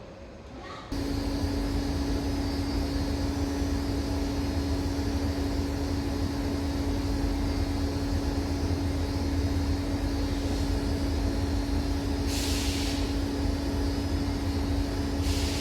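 EMD WDP4 diesel-electric locomotive being primed before startup: a steady hum over a low rumble, with a short hiss of air about twelve seconds in.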